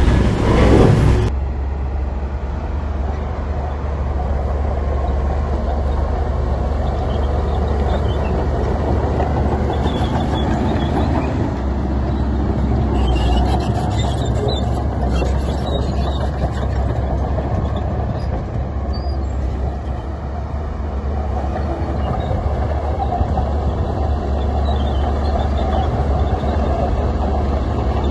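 Heavy diesel earthmoving machinery running steadily with a low rumble. A louder burst of noise in the first second stops abruptly, and faint scattered clicks and rattles come about halfway through.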